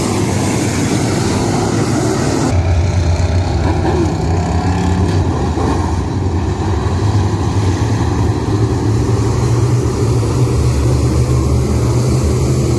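Race car engines running loud and steady, with a strong low drone. About two and a half seconds in the sound shifts suddenly, and the low engine drone grows stronger.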